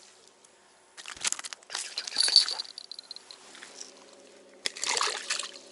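Close handling noise: two bursts of rustling, crinkling and clinking, about a second in and again near the end. From about halfway, a faint steady hum of distant tractors runs underneath.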